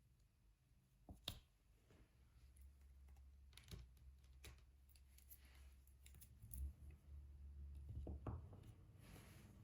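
Faint, scattered clicks and taps of diamond painting: a drill pen picking up resin drills and pressing them onto the adhesive canvas, a few at a time with pauses between, over a low hum.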